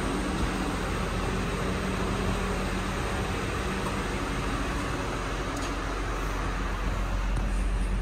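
2009 Honda Odyssey's 3.5-litre V6 idling steadily.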